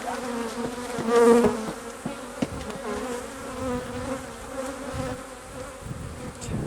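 Honey bees buzzing in a steady hum from an opened hive, swelling briefly about a second in.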